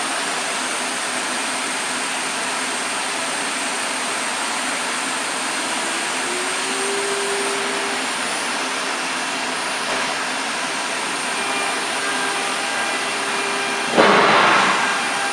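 ATC CNC router running a linear-axis test: a steady hiss with a faint motor whine that rises in pitch about six seconds in and then holds as an axis travels. Near the end a sudden loud burst of hiss fades out over about a second.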